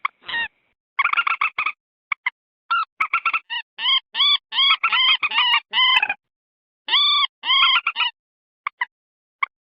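Common moorhen calls from a lure recording: runs of short, sharp clucking notes in quick succession, broken by brief gaps, with dead silence between the runs.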